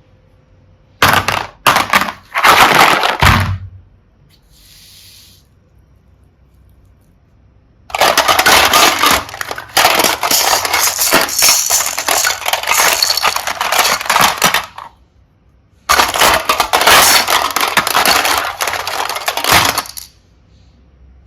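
Small plastic charms and beads clattering and rattling against each other in three bursts of dense clicking: a short one near the start, a long one in the middle, and another near the end.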